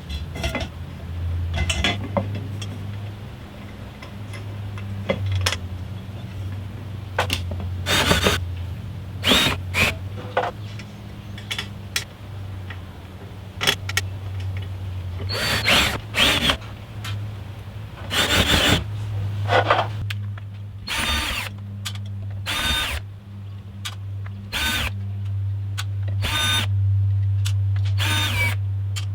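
Power drill running in many short bursts of about half a second each, at irregular intervals, over a steady low hum.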